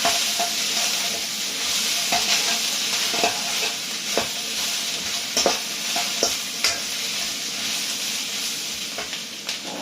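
Chicken, onions and bell peppers sizzling in a hot wok over raised heat, with the steady hiss of frying broken by scattered clicks and scrapes of the spatula tossing the food.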